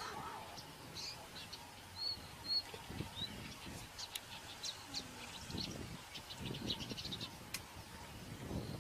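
Birds chirping in short, high calls that quicken into a rapid run of chirps and clicks near the middle, over an irregular low rumble.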